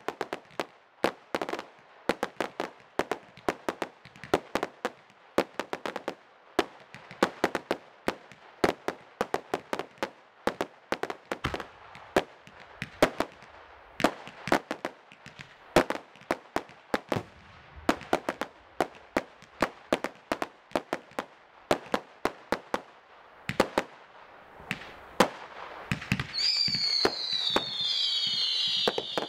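Aerial firework shells bursting in an uneven, rapid series of sharp bangs, among them an 8-inch shell. Near the end several firework whistles sound at once, each falling slightly in pitch, over a denser run of reports.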